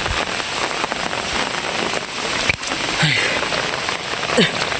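Steady rain falling on the ground and water, an even hiss of drops throughout.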